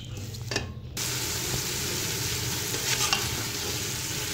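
Shredded cabbage and potatoes sizzling as they are stir-fried in a pressure cooker, with a spatula scraping through them now and then. The sizzle comes in suddenly and louder about a second in and then holds steady.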